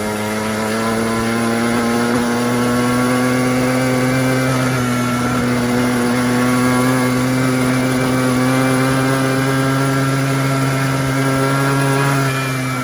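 Small petrol quad bike engine running steadily under throttle while riding, its pitch creeping slowly upward, then easing off near the end.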